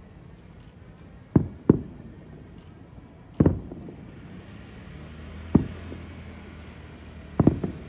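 Aerial fireworks shells bursting: a series of sharp booms, some in quick pairs and a fast cluster near the end, each dying away briefly, over a steady low hum.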